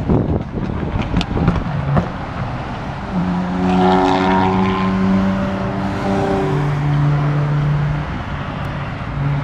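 Car engines and exhausts as cars drive past. Rough, noisy exhaust sound with a few sharp pops in the first two seconds gives way to a steady engine drone held for several seconds, then a lower-pitched steady drone from a second car.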